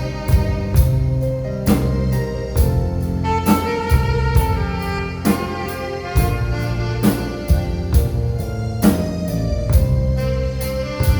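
A live instrumental band plays a Korean pop tune: an alto saxophone carries the melody over keyboard and a drum kit keeping a steady beat.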